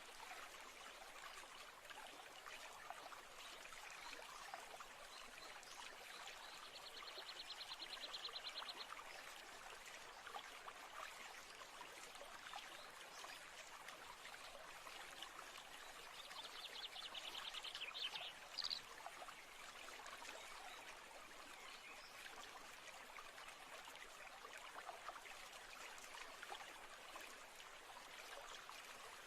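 Faint, steady running water of a stream. A high, rapid trill comes twice, about a quarter of the way in and again just past the middle, the second one ending in a short rising note.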